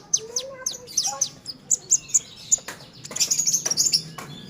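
A songbird singing: a string of sharp, high, quick down-slurred chirps several times a second, running into a dense burst of rapid chatter about three seconds in.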